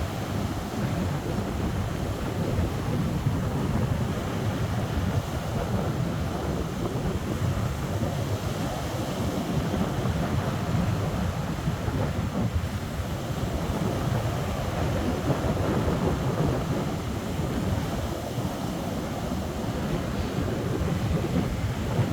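Wind buffeting the microphone in a steady low rumble over the continuous wash of sea waves.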